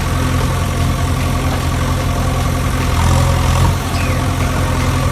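Engine idling steadily with a low, even rumble that swells briefly about three seconds in.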